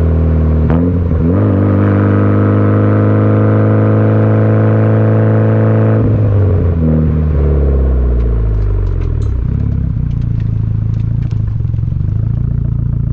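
Mitsubishi Lancer Evolution's turbocharged four-cylinder engine through a muffler-delete exhaust, driving: the note climbs steadily under light throttle, then falls as the throttle is lifted and settles into an even lower cruising hum, with a few faint ticks.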